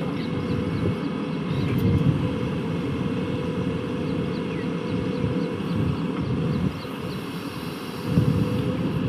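Heavy diesel engine of earth-moving machinery running steadily, swelling in loudness briefly about two seconds in and again near the end.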